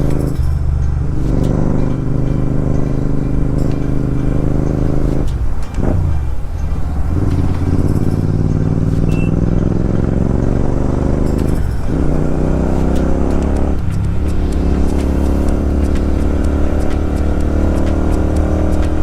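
Royal Enfield Continental GT 650's parallel-twin engine running under load through an aftermarket exhaust while riding, its note dipping and climbing again about four times as the revs change.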